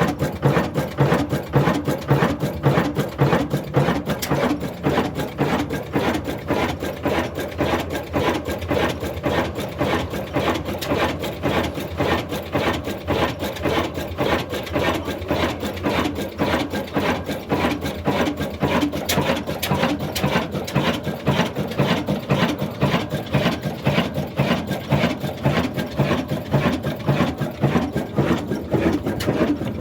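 Old black stationary diesel engine running steadily, a fast, even mechanical clatter of knocks.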